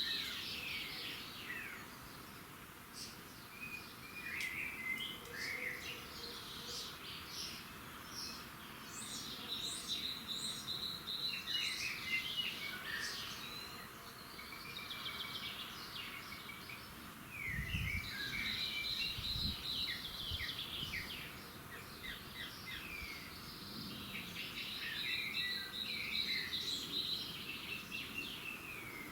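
Wild songbirds singing in a dawn chorus, several birds calling over one another with quick chirps, whistles and a repeated trill. A few low thuds sound about two-thirds of the way through.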